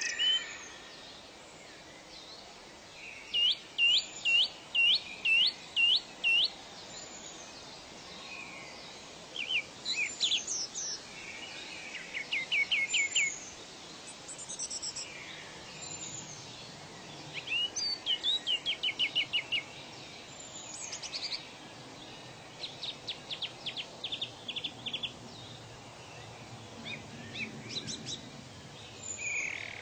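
Songbirds singing: a run of about seven falling whistled notes a few seconds in, then several quicker trilled phrases, over a faint steady hiss.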